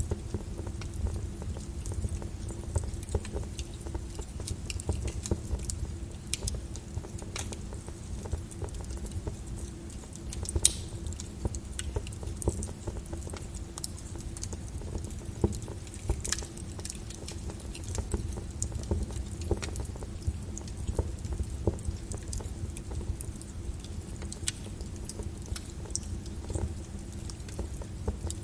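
Wood fire crackling, with irregular pops and snaps over a steady low rumble and the even hiss of rain.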